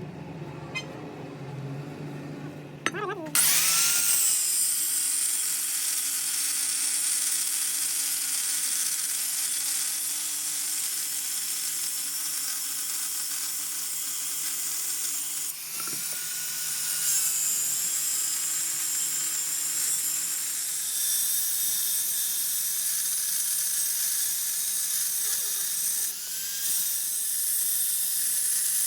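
A high-speed electric power tool starts up suddenly about three seconds in and runs steadily on metal with a high, hissing whine. It dips briefly around the middle, then carries on.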